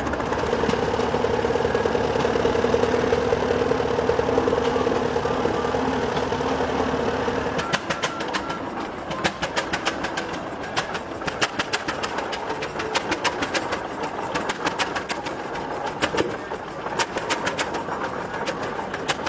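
Old tractor engine running, with a steady drone for about the first seven seconds, then a long run of sharp, irregular clicks.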